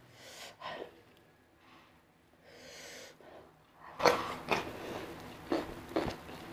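Close-miked eating sounds from a person eating by hand: a few soft breaths at first, then from about four seconds in a run of loud wet smacks and clicks as a handful of rice and fish is chewed with the mouth open.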